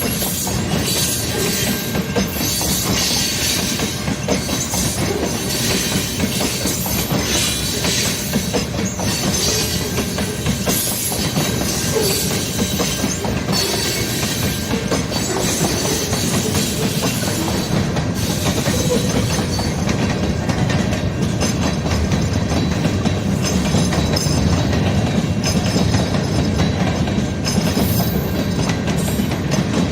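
CN mixed-freight manifest train's cars rolling past, wheels clicking over rail joints in a steady, continuous clatter.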